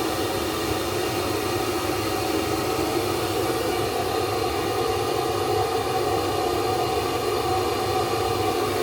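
Steady running noise of a moving train heard inside the carriage: an even rumble and rushing hiss with a constant hum.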